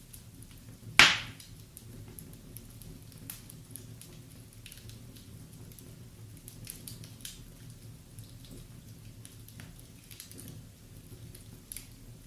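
Wood fire crackling in a fireplace: scattered small crackles and snaps, with one loud, sharp pop about a second in.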